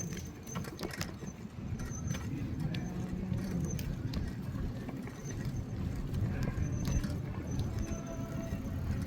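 A bicycle ridden along a paved path: a steady low rumble of wind and tyres, scattered rattles and clicks, and a few brief faint squeaks.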